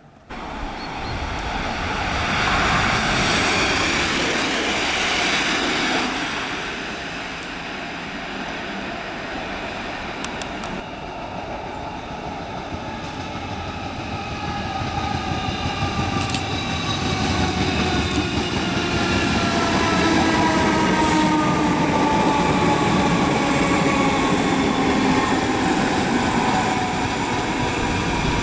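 Class 313 electric multiple unit running in and slowing down. Rail and wheel noise is loud in the first few seconds, then the traction motors' whine falls steadily in pitch through the second half as the train brakes.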